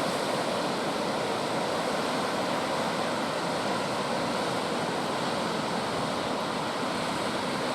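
Ocean surf breaking on a beach: a steady rushing wash of waves, with no single crash standing out.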